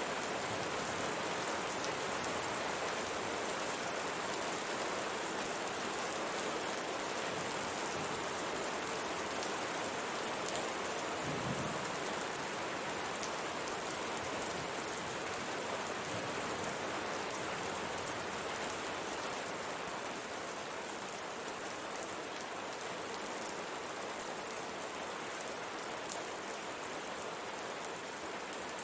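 Steady rain pattering on a window pane, a dense even hiss of drops, a little quieter in the last third.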